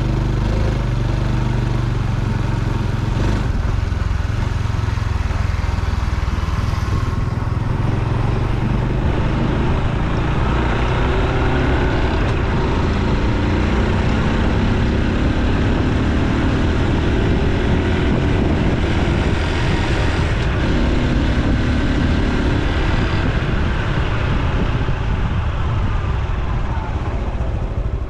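Honda Super Cub C125's single-cylinder four-stroke engine running on the move, its note rising and falling as the bike speeds up and slows, over a steady rush of road and wind noise.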